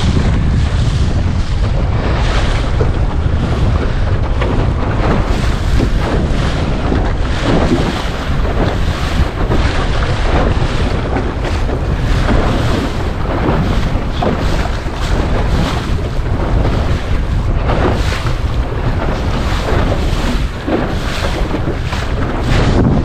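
Gusty wind buffeting the microphone with a heavy low rumble, while waves slap and splash against the hull of a small sailing dinghy bouncing over the chop, in repeated surges about a second apart.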